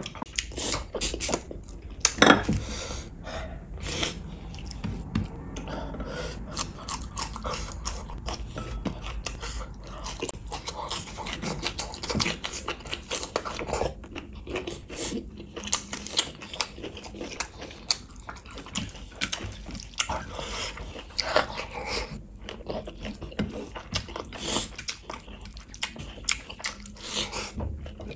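Close-miked eating by hand: wet chewing and mouth clicks of rice in red chilli gravy, with squelching as fingers mix rice and gravy on the plate. The small clicks and crackles come thick and irregular, starting suddenly at the outset.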